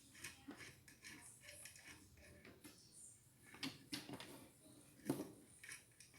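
Faint, scattered clicks and light knocks of small parts being handled, with a slightly sharper knock about five seconds in.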